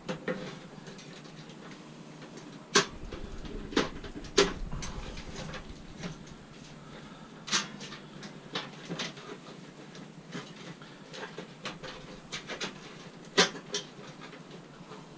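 Irregular sharp clanks and knocks of hand tools and loose metal parts as a scrap appliance is taken apart by hand, about a dozen hits, the loudest about three seconds in and near the end.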